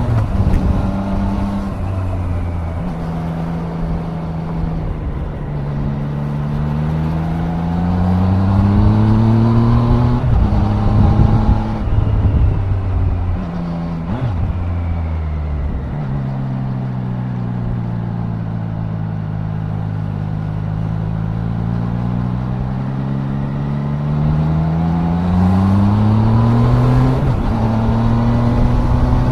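Triumph Daytona 660 inline-three engine under way, its note rising through the revs and dropping at gear changes several times. In the second half the note sinks slowly as the bike slows, then climbs again near the end as it accelerates.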